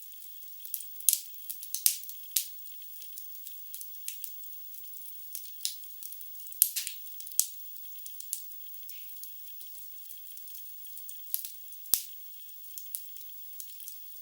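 Wood logs burning in a fireplace, crackling: a soft hiss with irregular sharp pops and snaps, a few of them much louder, all thin and high-pitched.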